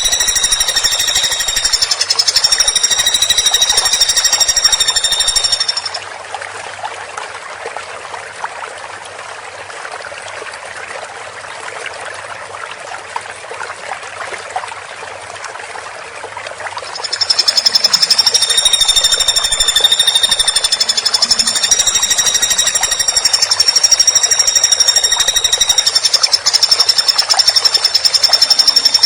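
Woodpecker giving a rapid, high-pitched rattling trill, the pulses too fast to count. It drops to a softer, scratchier chatter about six seconds in, and the loud trill returns about seventeen seconds in.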